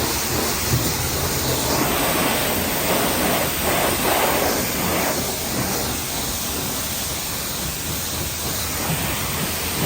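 Steady hiss of water spraying from a self-service car wash's high-pressure wand.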